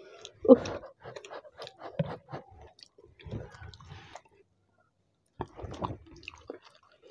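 Close-miked chewing and wet mouth sounds of people eating soft khichuri (rice and lentils) by hand, with soft squishes of fingers working the food on the plate; a brief pause about two-thirds of the way through.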